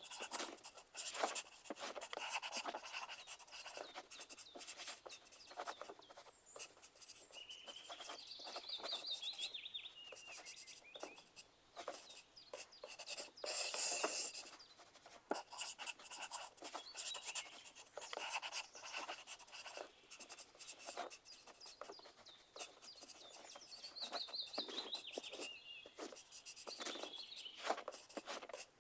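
Pencil writing on paper: continual irregular scratching strokes and light taps. A faint high rising chirp comes twice, near a third of the way in and again near the end.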